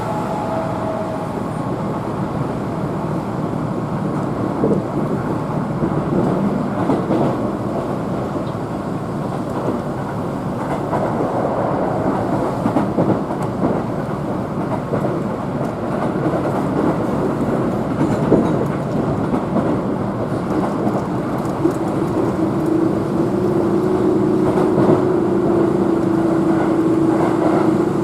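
Keihan electric train running at speed, heard from inside the passenger car: a steady rumble of wheels on rail, with a steady hum joining in about two-thirds of the way through.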